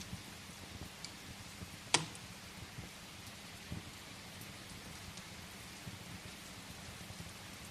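Steady rain with a crackling wood fire: scattered small crackles throughout and one sharp, loud pop about two seconds in.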